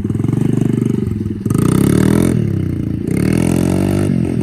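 Small off-road vehicle engine revving hard in rising and falling surges, driving through deep mud.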